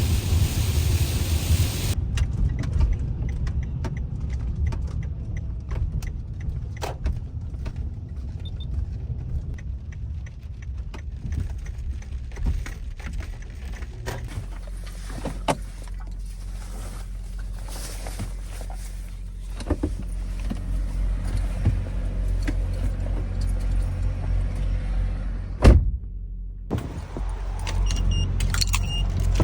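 Low, steady engine and road rumble of a car in motion, heard from inside the cabin, with scattered light clicks and rattles. The sound changes abruptly several times, as if cut together from separate clips.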